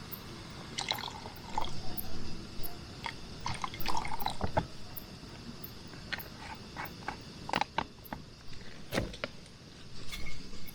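Water being poured and splashing, with drips and scattered clicks and knocks of handling; the busiest stretch is in the first half.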